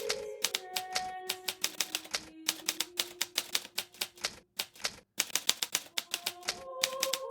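Hermes Baby portable typewriter being typed on: rapid keystrokes clacking several a second, with a short pause a little past two-thirds of the way through before the typing picks up again.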